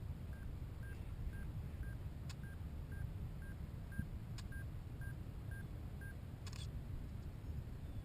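A small electronic device beeping: short, identical high beeps about twice a second that stop about six seconds in. Two sharp clicks and a brief rustle come near the end, over a steady low rumble.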